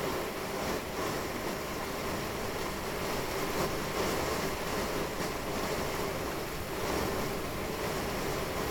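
Heavy thunderstorm rain pouring down steadily in a dense, even rush, with no thunderclap standing out.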